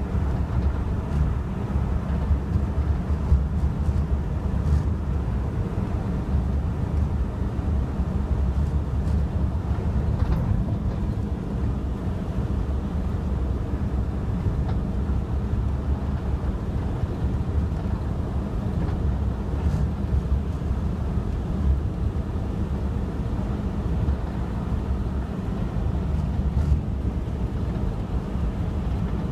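Steady low rumble of a moving car: road and engine noise with no change in pace.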